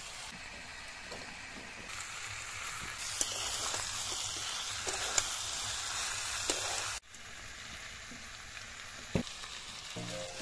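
Cubed jackfruit and sliced tomatoes sizzling as they fry in oil in a kadai, with a metal spatula stirring and clicking against the pan. The sizzle grows louder a couple of seconds in, then drops suddenly to a quieter hiss about seven seconds in.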